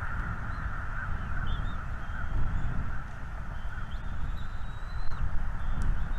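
Birds giving thin, high drawn-out calls, a few at first and then more steadily in the second half, over a steady low rumble and hiss.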